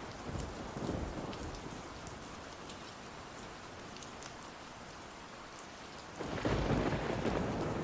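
Steady rain, with a low rumble of thunder swelling up about six seconds in.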